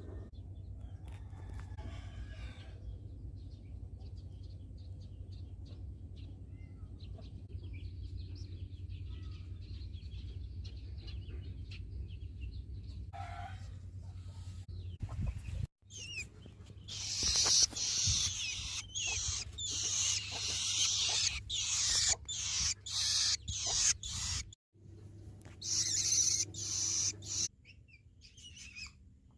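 Nestlings begging with harsh, hissy high-pitched calls, repeated loudly in quick runs from about halfway through, over a steady low hum.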